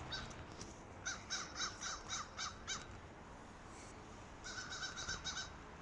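A bird calling: a run of about seven short, harsh calls, then a quicker run of short calls near the end.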